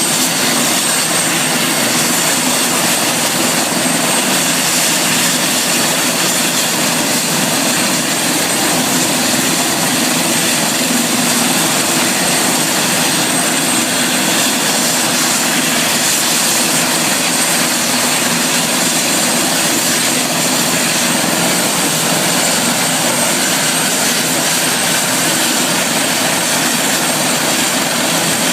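Helicopter running steadily: a loud, even rush of rotor and engine noise with a thin high whine that does not change.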